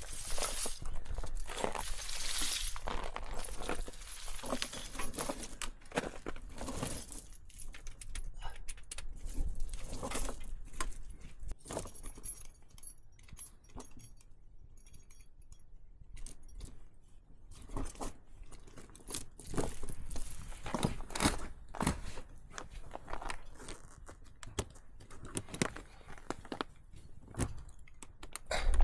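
Irregular light clicks and clinks of small hard objects being handled, busiest in the first few seconds and again about twenty seconds in.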